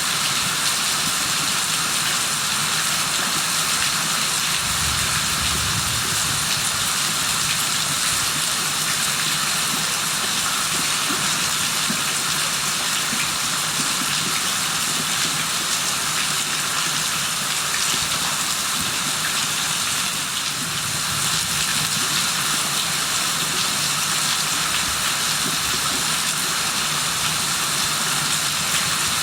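Steady heavy rain falling in a constant hiss.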